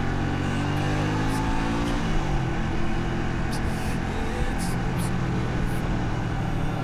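125 cc motorcycle engine under way, its revs climbing through the first two seconds, then dropping sharply and settling at a steady pitch for the rest.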